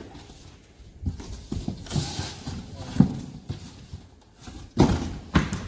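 Packaging machine handling cartons: irregular knocks and thumps, the loudest near the end, with a short hiss about two seconds in.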